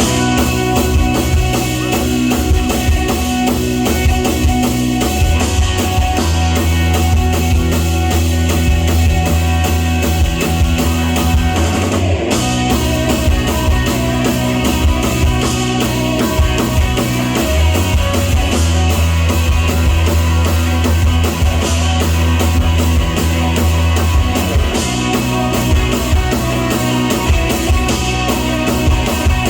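A full rock band playing live, loud and steady, with drum kit, electric guitars and bass; the drums break briefly about twelve seconds in.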